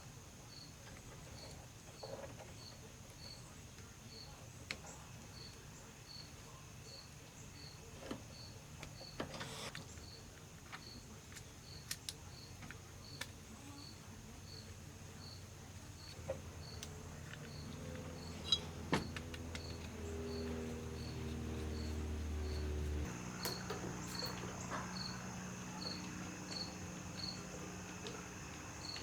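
A cricket chirping steadily, a short high chirp about twice a second. Under it, a low hum slowly grows louder and cuts off abruptly about 23 seconds in, leaving a fainter, lower hum.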